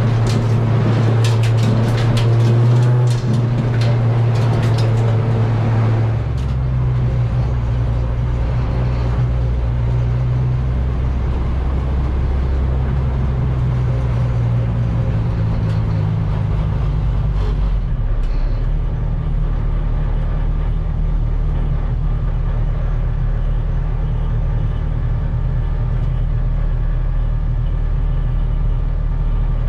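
Race car engine, a Honda K24 in a Civic EG, running at steady revs with a rattle of clicks in the first few seconds. Its pitch steps down about six seconds in and again at about eighteen seconds, then holds steady.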